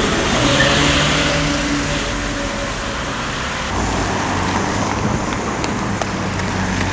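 Lamborghini Murcielago's V12 engine with IPE exhaust running at low, fairly steady revs, over road and wind noise.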